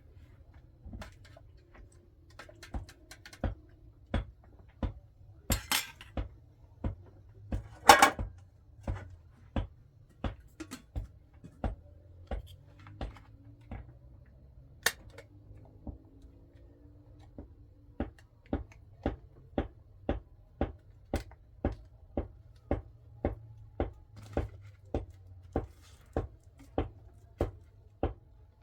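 Repeated sharp knocks, about two a second, like chopping or pounding on a hard surface, with a short louder scrape or rustle about eight seconds in.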